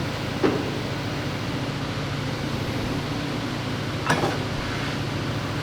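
Forklift engine running steadily, with two sharp metal clanks, one about half a second in and one about four seconds in.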